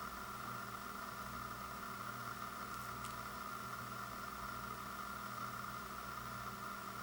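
Steady background hiss with a faint hum, with a single faint tick about three seconds in.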